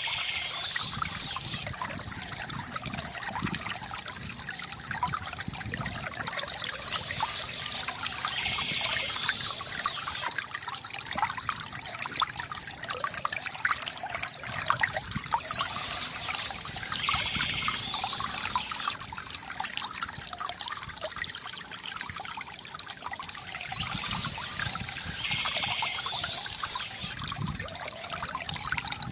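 Small stream trickling and splashing over stones in a steady, continuous flow. A bird's song phrase sounds above it about every eight and a half seconds, four times.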